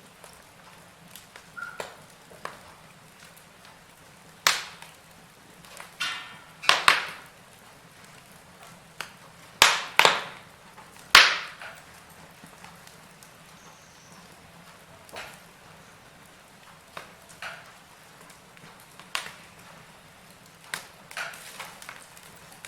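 Wood fire crackling in a fireplace: irregular sharp pops and snaps, coming thickest and loudest in the middle, over a faint steady background.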